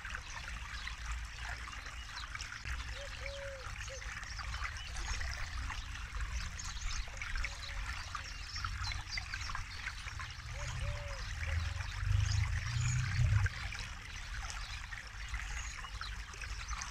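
Forest river flowing with a steady trickling babble of water. A low rumble under it swells for about a second and a half past the middle.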